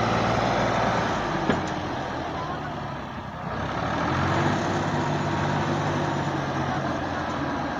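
A tractor's diesel engine runs hard under load. Its note sags about three seconds in and picks up again a second later, with a single sharp knock about one and a half seconds in.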